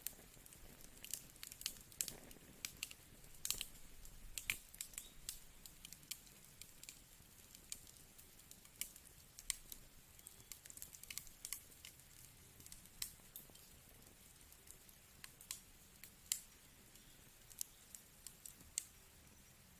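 Wood fire crackling: irregular sharp snaps and pops from burning firewood, a few clearly louder than the rest, over a faint low hiss.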